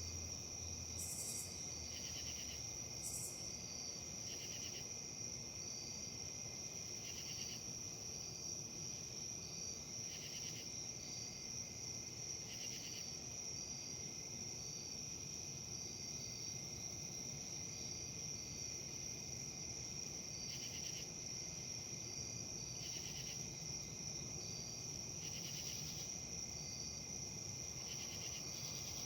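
Chorus of insects calling steadily: a continuous high-pitched whine with short chirps repeating about once a second.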